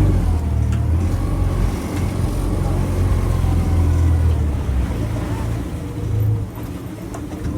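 Glass-bottom boat's motor running steadily with a low hum, dropping off about six and a half seconds in.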